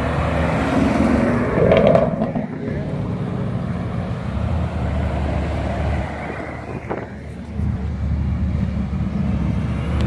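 Car engines rumbling as cars drive slowly past one after another. A Chevrolet Camaro SS's V8 is loudest about two seconds in, and a Jeep Wrangler passes later.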